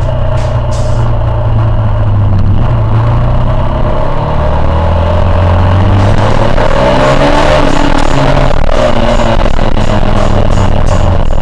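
KTM Duke 390's single-cylinder engine running loud while the bike is ridden, its revs rising and then falling about two thirds of the way through.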